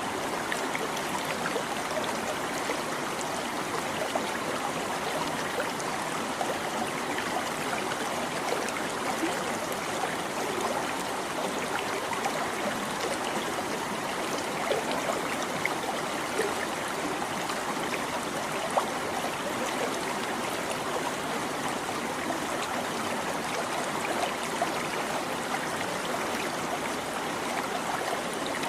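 A small stream babbling and trickling over stones, a steady rush of water with many small splashes and gurgles.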